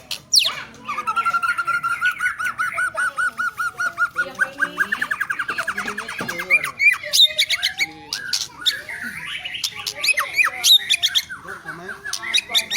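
White-rumped shama (murai batu) singing in aggressive, fight-ready song: a fast run of rapidly repeated notes lasting about five seconds, then varied whistles, harsh calls and sharp clicks.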